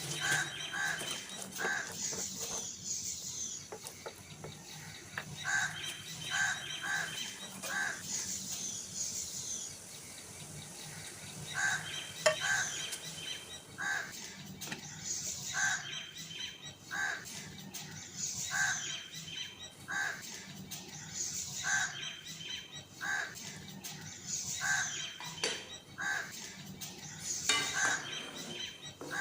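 Birds calling over and over in short bursts, in groups of a few calls at a time, with higher chirps mixed in.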